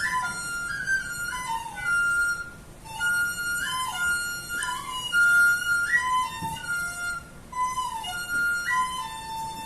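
Flute playing a slow melody of held notes with short slides between them.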